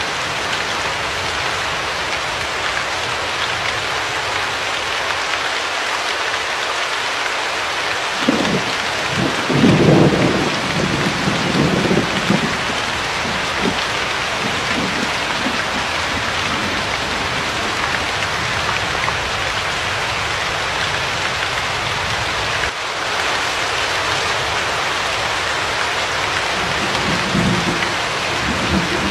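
Steady hiss of heavy rain, with a low rolling rumble of thunder swelling up about eight seconds in, loudest around ten seconds and fading by thirteen, and a fainter rumble near the end.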